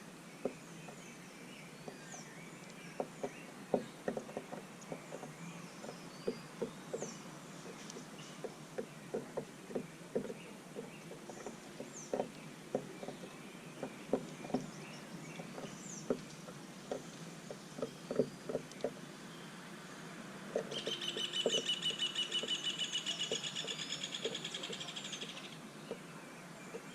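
Small birds at a seed feeder: scattered short high chirps and many light taps, with a loud, rapid trill lasting about five seconds near the end.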